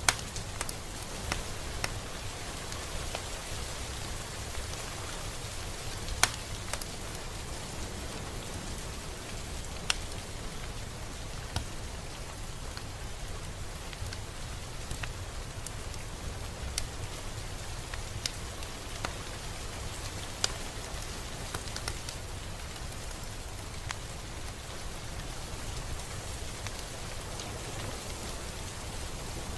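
Steady rain, an even hiss with a low rumble beneath, and scattered sharp drop ticks, a few louder ones standing out, the clearest just after the start and about six and ten seconds in.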